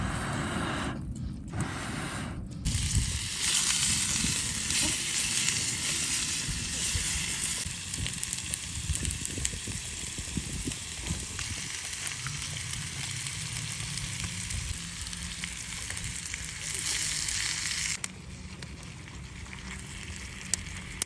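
Food sizzling and frying over a campfire: a steady hiss with fine crackles that starts about three seconds in and dies down shortly before the end.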